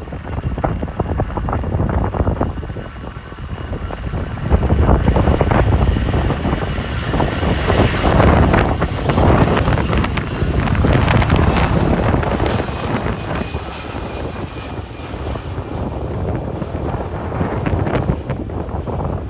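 Departing airliner's engines at takeoff power. The noise swells about four seconds in, is loudest around the middle, then slowly fades, with wind buffeting the microphone.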